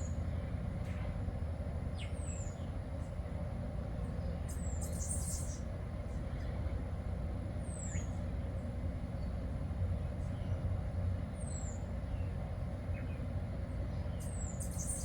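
Outdoor background of a steady low rumble, with a bird giving short, thin, high call notes that slide downward, one every few seconds.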